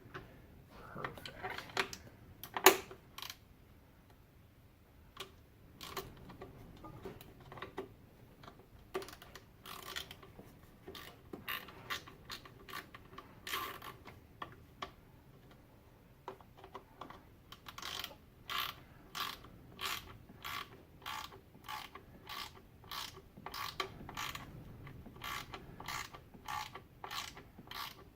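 Ratchet wrench with a T40 Torx bit clicking as it tightens screws. Scattered clicks and one sharp knock about three seconds in, then a steady run of clicks about two a second over the second half.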